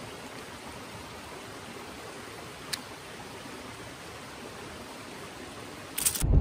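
Steady, even hiss like rushing water, with one brief high chirp near the middle. A louder low rumble comes in near the end.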